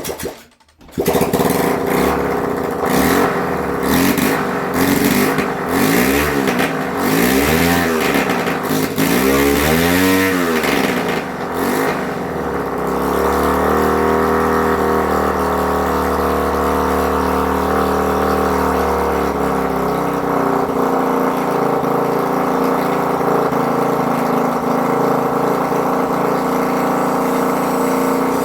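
Honda CB125 RS single-cylinder four-stroke engine being revved with repeated throttle blips for about the first twelve seconds, then running at a steady fast idle. Its points ignition is freshly set, and it will not hold a low idle.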